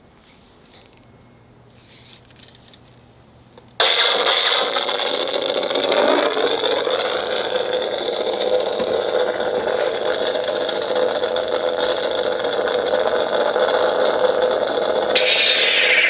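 Black Series crossguard (Kylo Ren) lightsaber's sound board: about four seconds in it ignites suddenly and settles into a loud, steady, crackling hum, with a brief brighter swish near the end.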